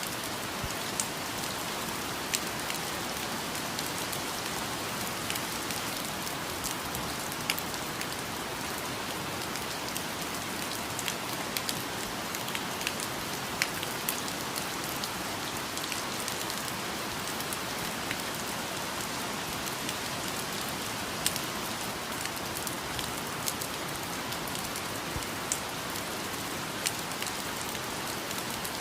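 Steady rain falling, an even hiss with scattered sharp drip and drop ticks on near surfaces.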